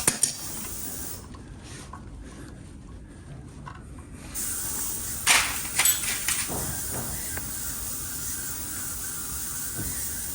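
Steady hiss with a few sharp clicks and knocks from handling metal brake parts, once at the start and a cluster about five to six seconds in.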